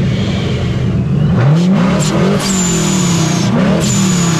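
Car engine revved hard several times in quick succession, its pitch rising and falling with each blip, with a thin high whistle over it.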